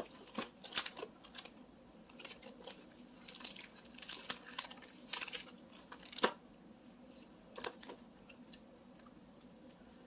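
Candy-bar wrapper crinkling and someone chewing a salted caramel Twix, heard as scattered short crackles and rustles, the sharpest about six seconds in.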